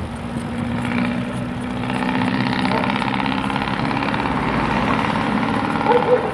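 Motor vehicle engine running with a steady hum, growing louder after about a second.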